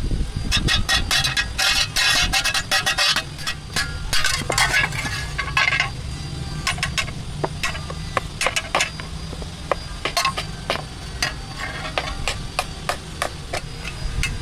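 Hammer blows and clinks of metal on metal as a shovel blade is worked, in dense runs through the first six seconds and then more spaced out, over a steady low hum.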